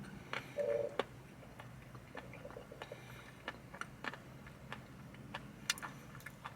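Chewing an ice cream chocolate chip cookie sandwich: soft, irregular mouth clicks and smacks, with a brief steady tone under a second in.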